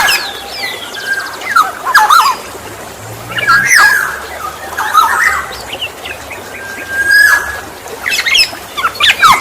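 Black-naped oriole calling: short phrases of harsh, squawking notes mixed with clear whistled notes, repeated every second or two.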